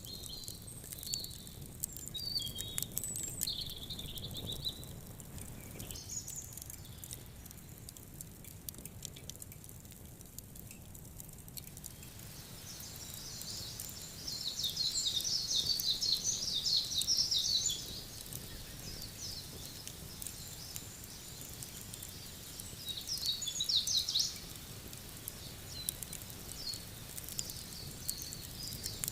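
Wood fire crackling with scattered sharp pops, while small birds chirp. A dense burst of high twittering starts about halfway through and lasts a few seconds, and a shorter one comes near the end; this twittering is the loudest thing heard.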